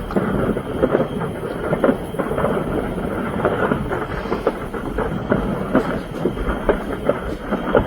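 Large fire crackling and popping, a dense stream of small sharp bursts over a low rumble.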